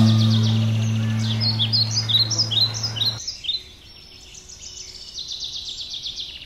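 Small birds chirping and trilling in quick runs, over a low ringing gong-like tone that fades and cuts off abruptly about three seconds in.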